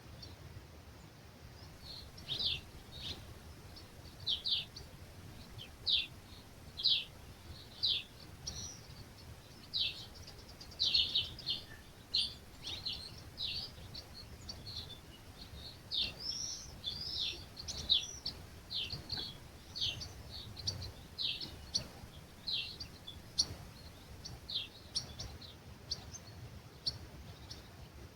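Songbirds chirping at dawn: short, high, quickly falling notes repeated about once or twice a second, starting a couple of seconds in, over a low steady rumble.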